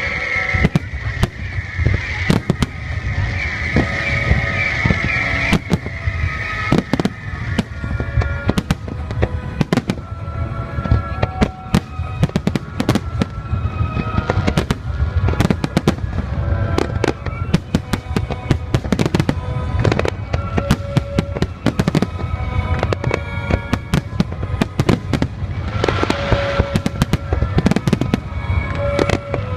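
Aerial fireworks bursting in a dense, irregular series of bangs, with music playing underneath.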